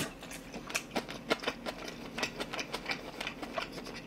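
Close-miked chewing of a mouthful of kimchi fried rice: a quick, irregular run of wet mouth clicks and smacks.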